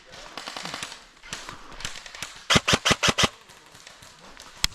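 Airsoft guns firing: a fast, fainter rattle of shots in the first second, then a loud rapid burst of about six shots around two and a half seconds in, and a single sharp shot near the end.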